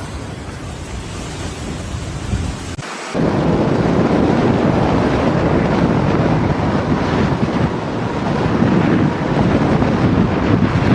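Heavy rainstorm with wind: a dense, steady rush of rain noise that jumps louder about three seconds in.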